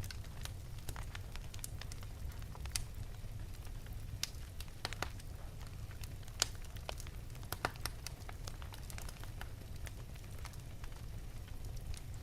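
Wood fire burning in an open fireplace: irregular sharp crackles and pops over a low, steady rumble, with the loudest pops a little past the middle.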